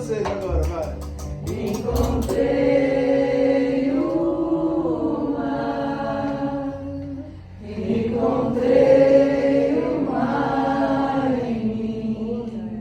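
Live song with voices singing long held notes in two sustained phrases, the second starting about seven and a half seconds in. A few sharp taps sound in the first two seconds.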